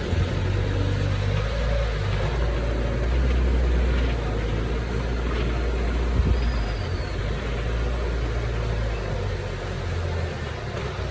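Heavy diesel engine of earthmoving machinery running steadily, its low drone rising and easing as it works, with one short knock about six seconds in.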